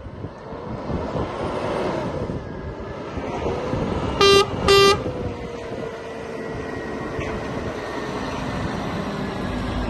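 Scania R420 tractor unit's diesel engine running, its pitch rising and then easing off, with two short horn blasts a little over four seconds in.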